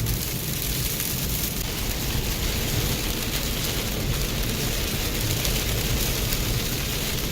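Heavy rain falling steadily on a moving car, with a low, steady rumble of road and engine noise underneath.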